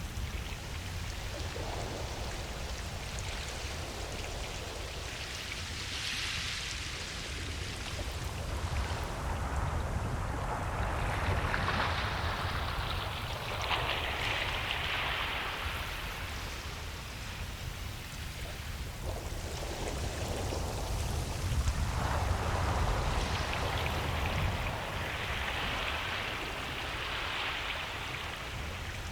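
Ocean waves washing onto a beach, the surf swelling and falling away about every five to eight seconds, over a steady low rumble.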